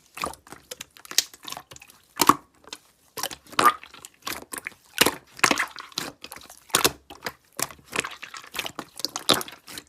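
Slime being squeezed and worked by hand, giving an irregular run of sharp crackling pops and sticky squelches.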